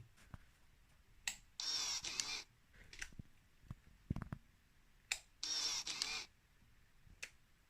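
Yamaha DT125R power valve servo motor whirring twice, each run lasting under a second and preceded by a sharp click, as it drives the exhaust power valve through its cables when the ignition key is turned.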